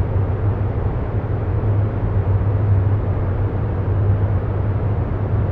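Steady, even low rumbling noise with a deep hum underneath: a continuous background ambience bed that does not change or break.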